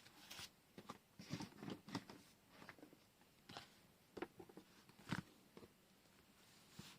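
Faint, irregular taps, clicks and rustles of washi tape rolls and paper being handled, the loudest about five seconds in.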